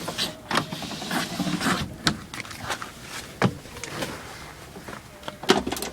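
Manual window winder on a Toyota Kijang Super's door being cranked, the glass moving in its channel: a run of irregular scrapes and clicks, with a few sharper knocks near the end.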